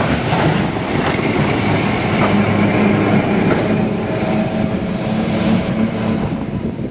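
Electric tram running on rails, with wheels rumbling over the track and a steady motor hum.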